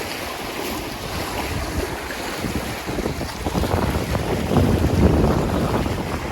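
Strong wind gusting across the microphone, an uneven rumbling buffet that peaks about three-quarters of the way through.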